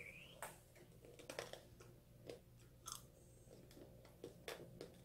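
Biting and chewing a tanghulu strawberry, its hard candied sugar shell cracking: faint, irregular sharp crunches.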